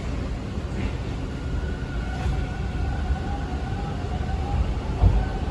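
TTC T1 subway car running through the tunnel, heard from inside the car: a steady low rumble of wheels on rail, with a faint whine from about a second in that rises slightly and fades. A short low thump comes near the end.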